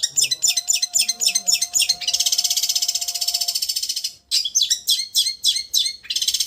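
Long-tailed shrike (cendet) song in the 'raja getar' style: a fast run of sharp high chirps, then a rapid vibrating trill for about two seconds, then chirps again and the trill returning near the end. A faint steady tone runs under the first half.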